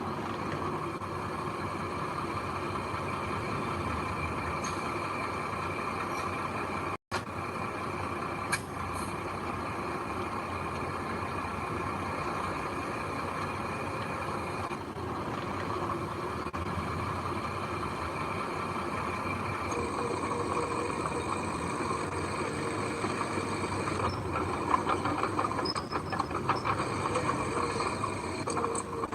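Heavy diesel construction machinery running steadily, engine noise from the dump truck and bulldozer working on site, with a few clicks and knocks and a slight rise in level in the last third.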